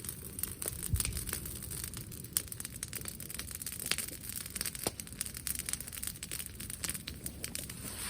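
Bonfire of cut brushwood crackling, with a continual run of sharp pops and snaps over a low rumble.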